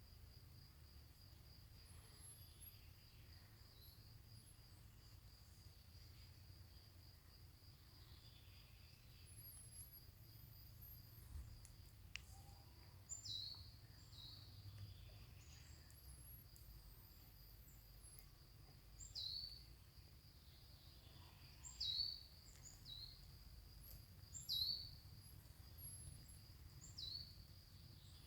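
Faint outdoor ambience: an insect, cricket-like, trills steadily in a fast pulsing high note. Over it a bird repeats short, sharply falling call notes about every two to three seconds in the second half, with a low rumble of wind underneath.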